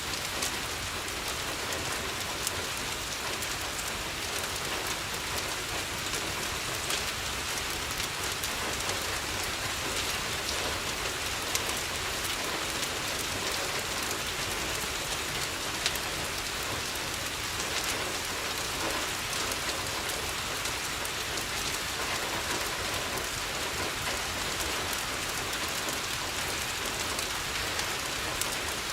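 Steady rain on a window, with a few sharp crackles from a wood fire now and then.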